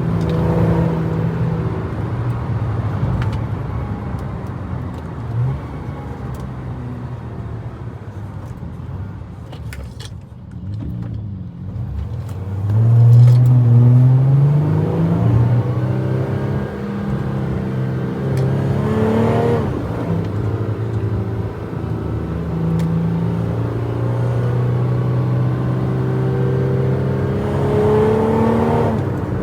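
Motor vehicle engine running under load, its pitch climbing and breaking off three times, about halfway in, a few seconds later, and near the end.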